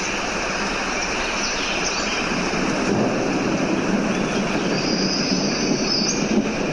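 Nature field recording: a steady, dense rushing noise with a few short, high bird chirps over it.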